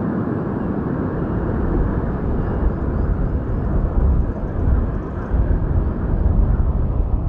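Jet engines of a Boeing 787 heard from the ground: a steady, deep rumble that grows a little louder in the second half.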